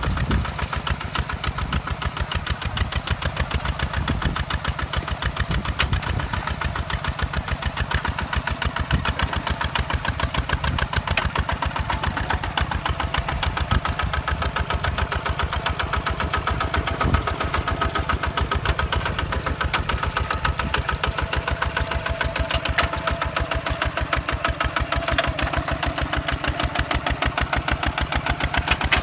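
Walk-behind tractor's single-cylinder diesel engine running steadily with a rapid, even knocking beat.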